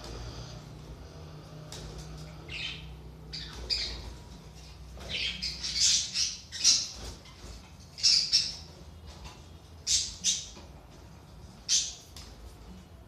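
Budgerigars squawking: a run of short, sharp, high calls coming every half second to a second, over a low steady hum that fades after the first few seconds.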